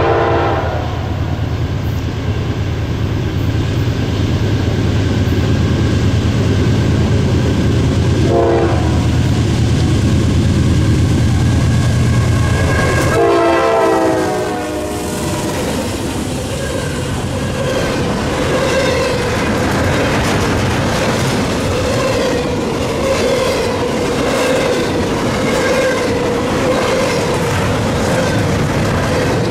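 Norfolk Southern GE diesel freight locomotives approach with a deep rumble while the lead unit's Nathan K5LA five-chime horn sounds: a blast that ends about a second in, a short toot a few seconds later, then a longer blast that drops in pitch as the locomotive passes. After that, double-stack intermodal cars roll by with a steady clickety-clack of wheels over the rail joints and a steady ringing tone above it.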